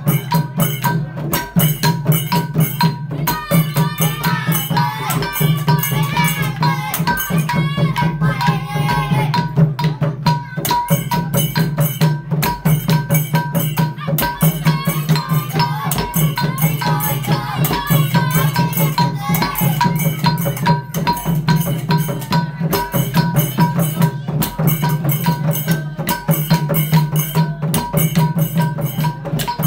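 Khmer chhay-yam festival percussion music: a fast, dense rhythm of drums and clattering small cymbals over a steady drone. A wavering melodic line rises above it twice, about four seconds in and again around the middle.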